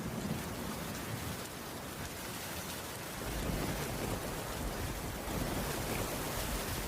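Heavy rain falling steadily on a cabin roof, with a low rumble underneath that grows a little stronger partway through.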